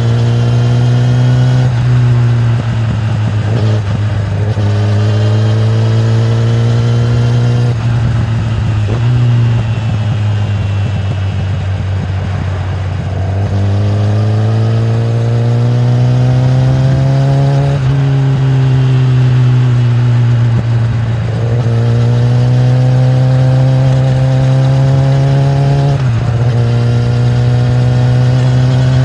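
Kawasaki ZX-10R's inline-four engine through its stock exhaust, pulling under throttle while riding: its pitch climbs and then drops back several times, with steady wind rush underneath.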